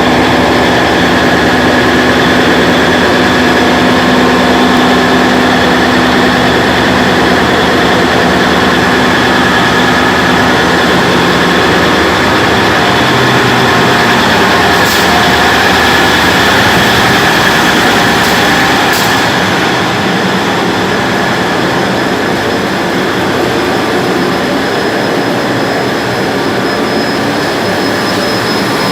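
Ship's marine engine running at steady speed, heard loud and close in the engine room: a continuous mechanical din with steady humming and whining tones. Two short clicks come in the second half, and the level eases a little about two-thirds of the way through.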